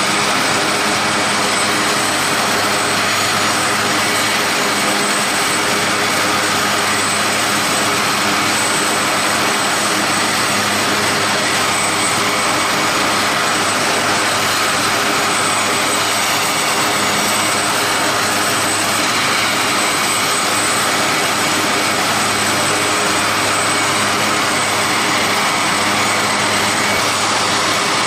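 Aircraft turbine engines running steadily at a constant setting: a loud, unchanging roar with a fixed high-pitched whine over it.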